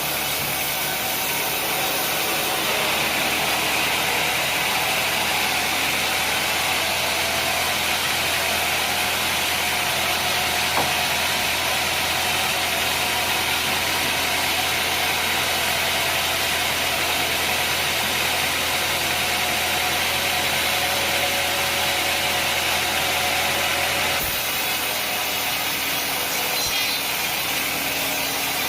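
Sawmill running steadily, engine-driven, with a saw cutting through a mahogany log; the extra cutting noise comes in a few seconds in and stops abruptly about 24 seconds in.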